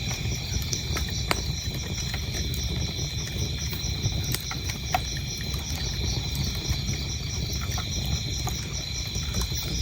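Wood fire burning with a low rumble and scattered sharp crackles and pops, over crickets chirping in a steady, even pulse of a few chirps a second.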